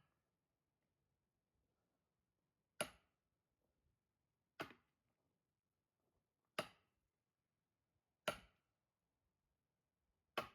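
Five sharp strikes of a splitting tool driven into a log of firewood, about one every two seconds.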